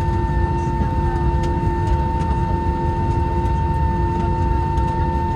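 Airbus A321-231 taxiing on one engine: a steady low rumble with constant hum tones over it.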